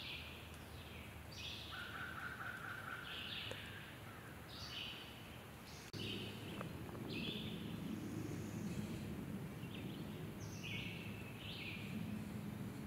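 Woodland ambience with birdsong: a bird gives short high calls over and over, about one a second, and another bird sings a lower held note about two seconds in. About six seconds in, a low rumble joins and stays.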